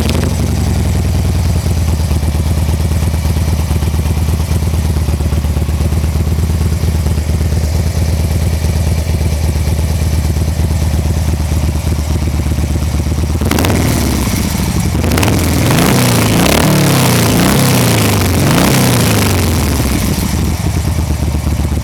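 Motorcycle fitted with an MCJ aftermarket exhaust, idling steadily just after starting. About two-thirds of the way through, it is revved in a series of throttle blips, rising and falling several times, then drops back to idle.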